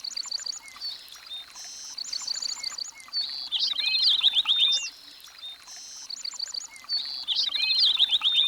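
A songbird singing. The same phrase comes twice, each a high held note, then a quick run of notes and a fast trill.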